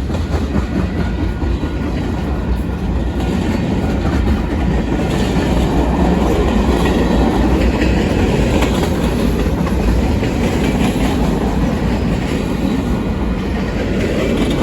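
Union Pacific train passing close by: steady noise of the cars' wheels running on the rails, getting a little louder a few seconds in.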